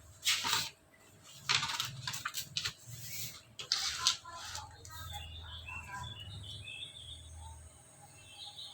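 Three short scratchy rustles in the first four seconds, then small birds chirping repeatedly in the background.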